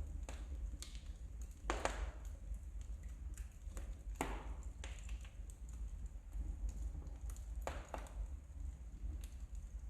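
Wood fire burning in a fireplace, the logs crackling with scattered sharp pops, the loudest about two and four seconds in and a pair near eight seconds, over a steady low rumble.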